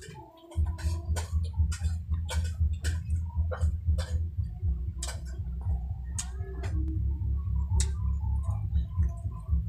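Close-miked eating sounds: wet chewing and lip-smacking of sauced pork ribs and rice, with sharp mouth clicks about twice a second over a steady low hum.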